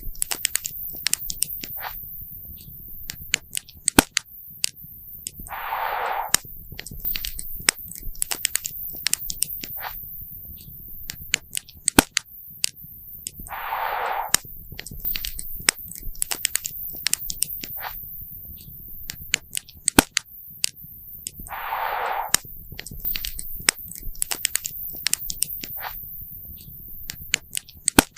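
Campfire crackling and popping, with sharp snaps throughout and a few louder pops. A short, soft hiss swells about every eight seconds.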